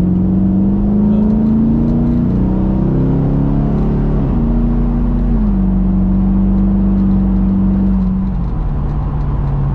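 Chevrolet Camaro V8 engine under throttle on a race track. It rises in pitch, drops suddenly about four seconds in and climbs briefly again, then falls to a steady drone that steps down once more near the end as the driver eases off.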